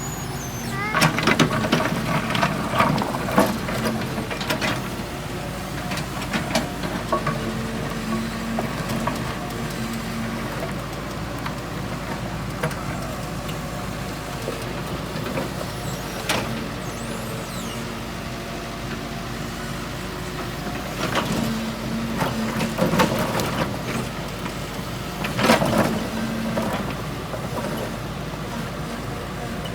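Heavy diesel machinery engine running steadily, with several bursts of clattering knocks as rock is scooped and moved, around the start, midway and near the end.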